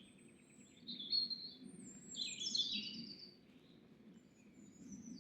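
Songbirds singing faintly: short high chirps, with a longer phrase of quick notes stepping down in pitch about two seconds in.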